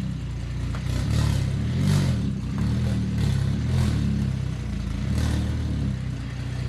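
Built single-turbo BMW N54 straight-six running while warming up, with several short throttle blips that briefly raise its pitch.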